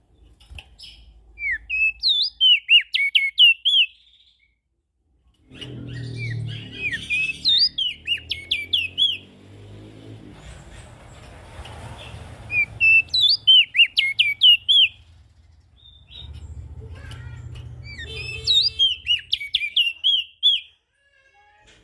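Prenjak daun bird singing in four bouts of rapid, high, sharp chirping notes, each bout two to three seconds long with short pauses between. A low background rumble comes in under the second and fourth bouts.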